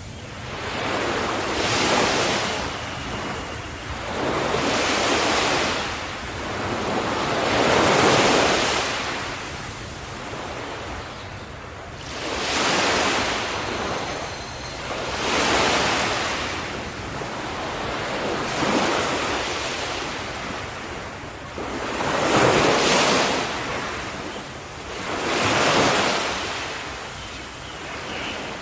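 Ocean waves breaking and washing up on the shore, each wave swelling to a rush of surf and ebbing away, about one every two to three seconds.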